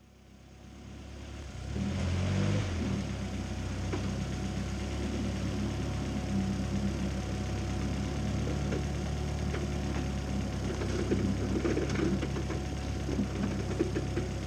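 Turbocharged Mazda Miata 1.8 BP four-cylinder engine of an Exocet kit car running at low, steady revs. It fades in over the first two seconds and swells briefly about two seconds in.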